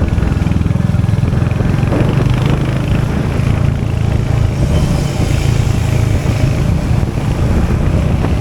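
Royal Enfield Hunter 350's 349cc single-cylinder J-series engine running steadily at an even, low pitch.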